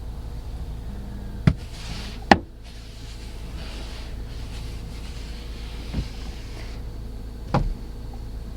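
Heard from inside a car: a steady low rumble with four sharp knocks and thuds against the car, the loudest about two seconds in, as snow is being cleared off the outside of the car.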